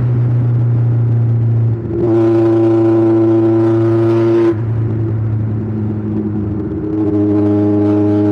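Kawasaki Ninja 1000's inline-four engine and exhaust running at steady revs. It gets louder and harsher under throttle about two seconds in, drops off abruptly a couple of seconds later, and picks up again near the end.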